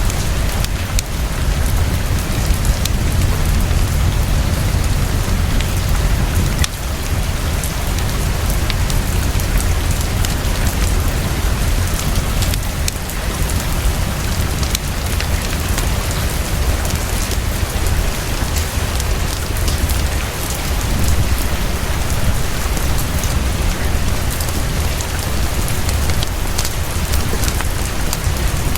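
Heavy, steady rainfall over a deep low rumble, with many scattered sharp ticks throughout.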